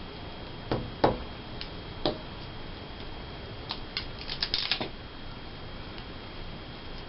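Paper cutouts being handled at a tabletop: a few light taps as pieces are set down, then a quick run of crisp paper rustling about four seconds in.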